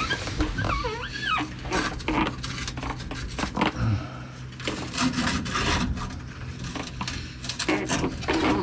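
Metal scraping, rubbing and light knocking as an exhaust pipe hanger is worked loose under a truck, with a brief wavering squeak about a second in.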